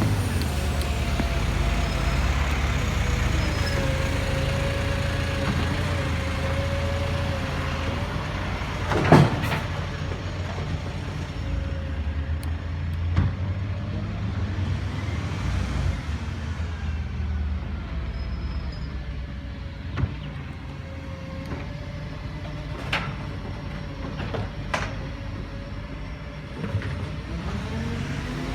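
Garbage truck's engine running steadily with a wavering whine, and a series of sharp knocks and clanks, the loudest about nine seconds in.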